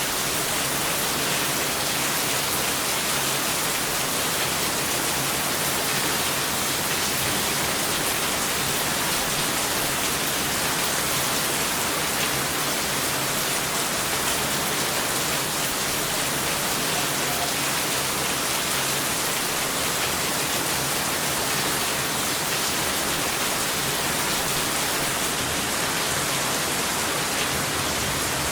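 Steady heavy rain falling, a dense, even hiss with no thunder.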